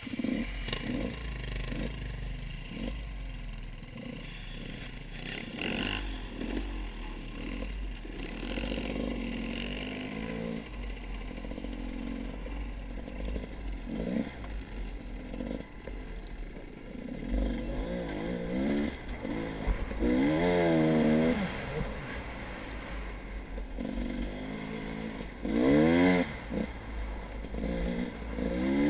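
Motorbike engine running and revving up and down repeatedly as it is ridden, coming on suddenly at the start, with the strongest revs toward the middle and end.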